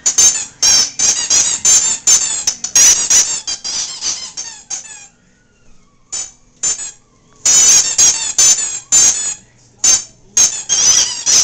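A Jack Russell terrier chewing a squeaky rubber hamburger toy, making rapid runs of high-pitched squeaks several times a second. There is a short lull about halfway through before the squeaking starts again.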